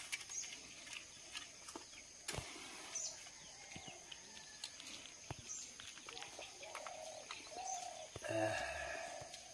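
Faint outdoor ambience with a bird giving a short high chirp every second or two. A sharp click comes a couple of seconds in, and a short call sounds near the end.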